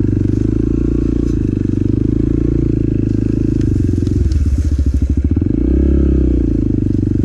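Motorcycle engine running at low, steady revs while riding slowly along a rough trail, with a brief rev that rises and falls back about six seconds in, picked up by a mic inside the rider's helmet.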